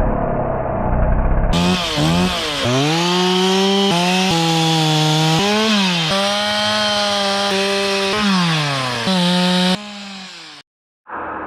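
Petrol chainsaw running at high speed, its engine note holding steady and then dropping and rising again several times as the throttle is worked. The first second and a half holds a rougher, duller engine sound, and the sound cuts off abruptly near the end.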